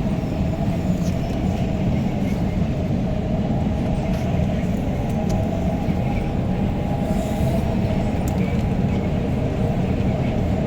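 Inside an REM light-metro train running at speed: a steady rumble with wind rushing through the doors and a faint steady whine above it.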